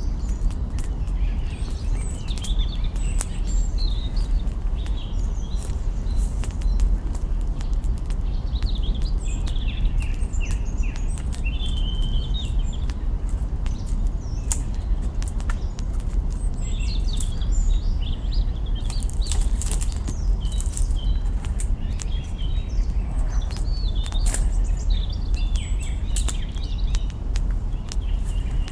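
Campfire crackling, with frequent sharp pops from burning branches over a steady low rush, while small birds chirp on and off.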